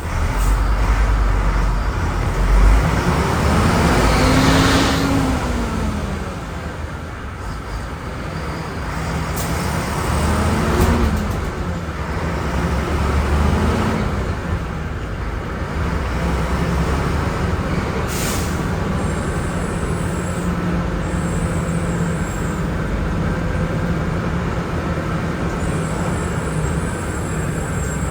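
Volvo B10M bus's underfloor six-cylinder diesel engine revving up and falling back three times, then running steadily under way, with a couple of short air hisses from the air system.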